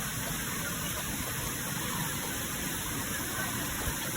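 Steady rushing roar of a waterfall, an even wash of falling water with a low rumble that does not change.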